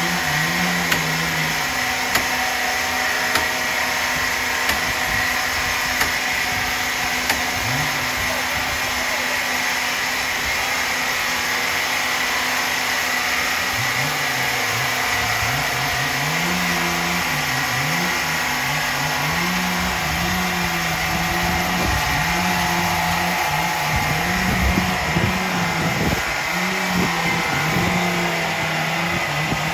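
Heavy sawmill machinery running steadily, with a low motor hum that wavers up and down in pitch as the load changes. Light regular ticks sound about once a second in the first few seconds.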